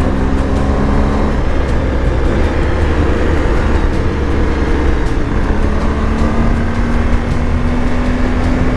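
BMW R 1250 GS Adventure's boxer-twin engine running under way at road speed, with a dense rush of wind and road noise. The engine note rises slightly in the second half.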